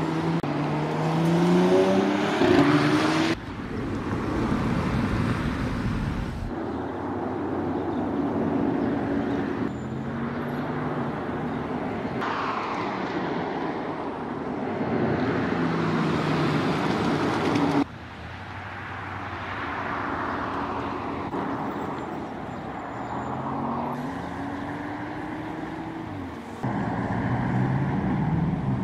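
Porsche Cayenne E-Hybrid SUV's V6 engine accelerating and passing by, its pitch climbing and dropping back as it shifts through the gears, with tyre and road noise. The sound changes abruptly several times where short clips are joined.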